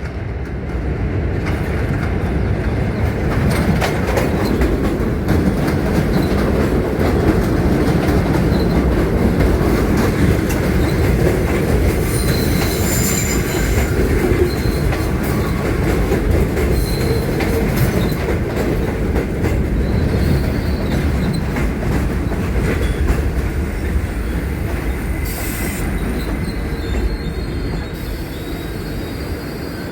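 R68 subway train pulling into a station: a steady rumble of steel wheels on rail with some clatter over the joints. A high wheel squeal rises around the middle and again briefly near the end, and the running sound eases slightly as the train slows.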